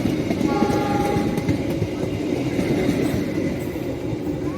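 A train running past on the track, a steady rumble of wheels and carriages, with a brief high tone about half a second in, easing off toward the end.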